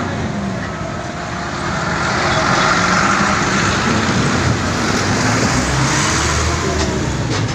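Road traffic: vehicle engines and tyre noise, with a passing vehicle swelling louder about two seconds in.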